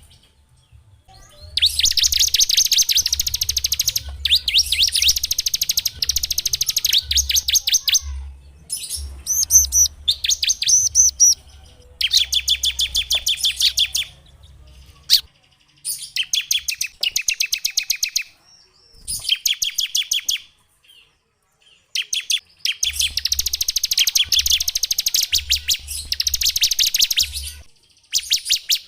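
A small songbird singing phrases of rapid, evenly repeated sharp notes, each phrase one to four seconds long, with short pauses between them.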